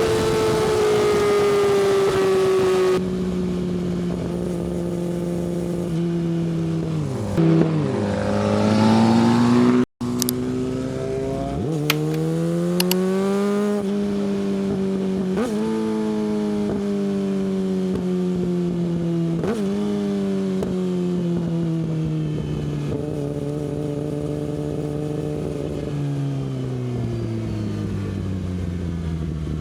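Yamaha R6's 600cc inline-four through an Akrapovic exhaust, riding and revving: the engine pitch climbs and falls repeatedly with quick steps between gears, winding down near the end. The sound breaks off for a moment about ten seconds in.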